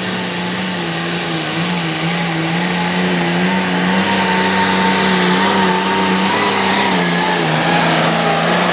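Limited pro stock pulling tractor's turbocharged diesel engine at full throttle under load, dragging the weight sled down the track. The engine note holds nearly steady with slight wavers.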